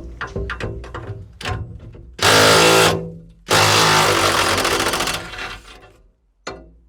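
Distorted electric guitar music: a run of short plucked notes, then two long, loud chords, and a last short hit near the end.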